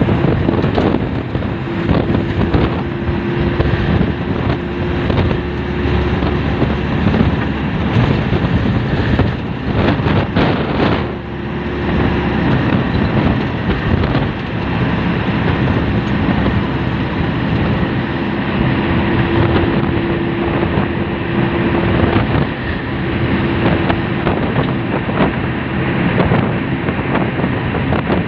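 Strong storm wind rushing and buffeting the microphone, loud and steady, as a thunderstorm moves in ahead of heavy rain.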